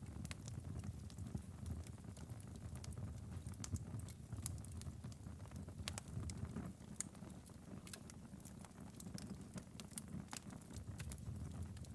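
Fireplace fire crackling: a steady low rumble of flame with frequent sharp, irregular pops and snaps.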